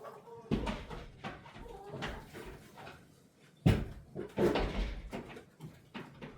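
Hens clucking, broken by sudden knocks and thumps, the loudest about three and a half seconds in.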